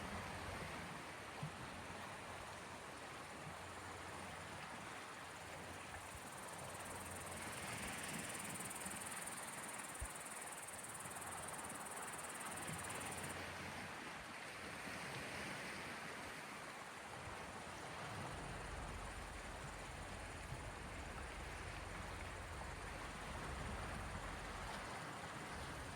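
Small waves of the Gulf of Finland washing against the shore, a soft steady wash that swells and ebbs every several seconds.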